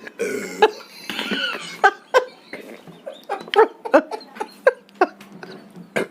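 People coughing and burping in short bursts, one after another, while gulping down fizzy Sprite from the bottle.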